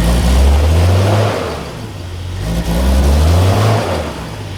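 Suzuki SJ's small four-wheel-drive engine revving up twice, its pitch rising for about a second each time, then dropping back toward idle.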